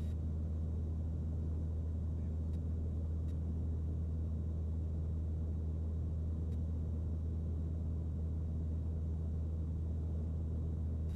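Steady low drone of a Mooney M20C's four-cylinder Lycoming engine and propeller in cruise-level flight, heard from inside the cockpit.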